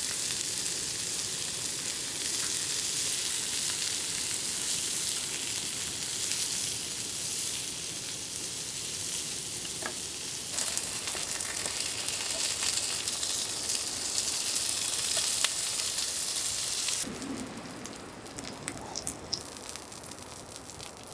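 Food sizzling in a hot pan, a dense steady hiss that cuts off suddenly about 17 seconds in, followed by quieter small clicks and taps.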